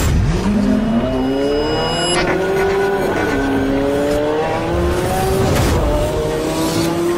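Car engine accelerating hard and shifting up through the gears: the pitch climbs, drops at each shift and climbs again, several times.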